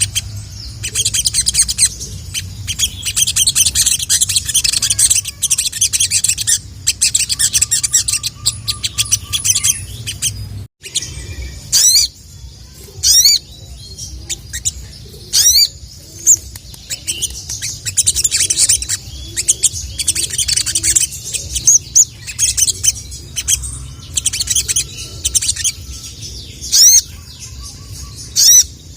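Sogon (sogok ontong) sunbird singing: long runs of rapid, high chattering song broken by loud, sharp falling whistles, a few at a time. It is a male's call, used as a lure to call out a rival male.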